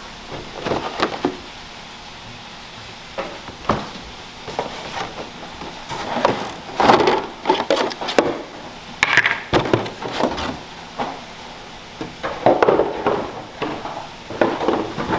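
Cardboard packaging being handled and opened, with rustling and irregular knocks and clunks of parts set down on a table, busiest about halfway through and again near the end.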